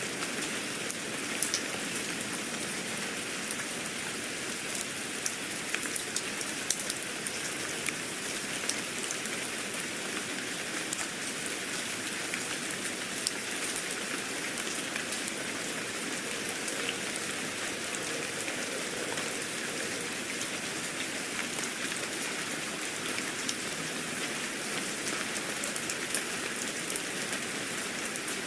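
Steady rain falling, a constant hiss peppered with many small drop ticks.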